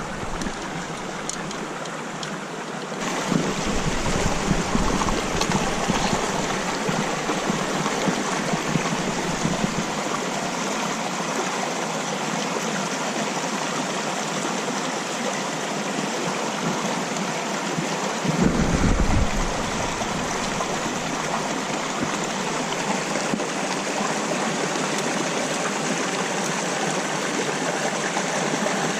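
Mountain stream running steadily, an even rushing of water. A brief low rumble comes about two-thirds of the way through.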